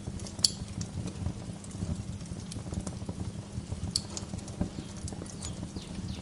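Wood fire crackling in a fireplace: dense, irregular small crackles over a steady low rumble, with two sharper pops, about half a second in and about four seconds in.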